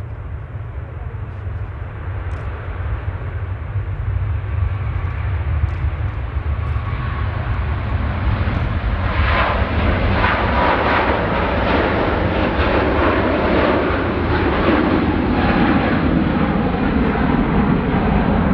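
Jet airliner's engines, a dense roar that grows louder over the first half and stays loud, with a tone that falls in pitch in the last few seconds as the aircraft goes by.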